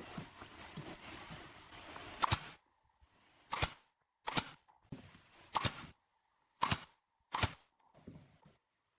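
Wood being nailed: six sharp strikes, roughly a second apart, after a steady hiss that cuts off suddenly.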